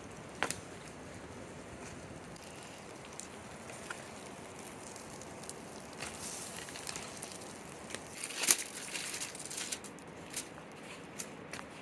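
Campfire crackling: scattered sharp pops over a low hiss, growing busier about halfway through, with the loudest pop about eight and a half seconds in.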